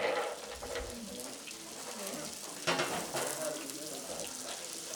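Almonds sizzling as they sauté in melted butter and olive oil in a pan, with a brief louder burst a little past halfway.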